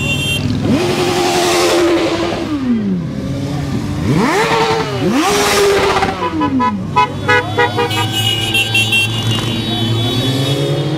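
Motorcycle engine revved twice over a steady idle, each time the pitch climbing, holding, then falling back. A run of short, choppy bursts follows in the second half.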